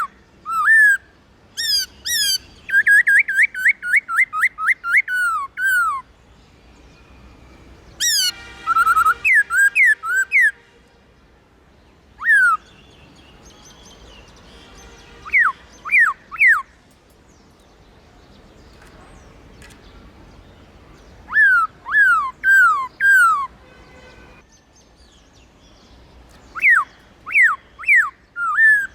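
Black-throated laughingthrush singing: loud runs of clear, downward-sliding whistled notes, the longest a rapid string of about a dozen notes near the start, with pauses of a few seconds between phrases.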